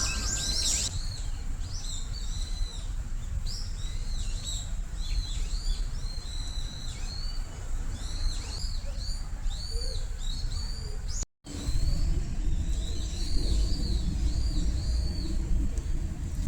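Small birds chirping over and over in short, arched calls, over a steady low rumble.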